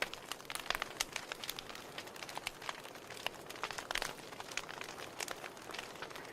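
Wood fire crackling in a fireplace: burning logs popping and snapping irregularly over a steady hiss, with a louder pop about four seconds in.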